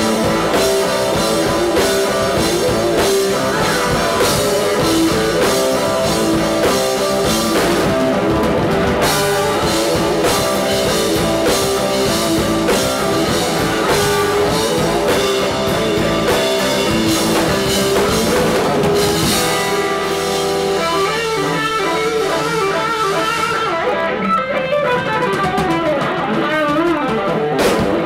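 Live electric blues-rock band playing: electric guitar over a drum kit. About twenty seconds in the drums drop away, leaving the electric guitar playing wavering, bent notes.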